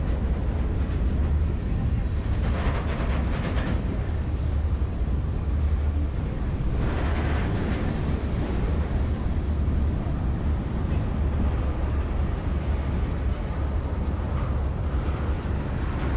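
Freight train cars rolling past at close range: a steady rumble of steel wheels on rail, swelling briefly about three seconds in and again about seven seconds in.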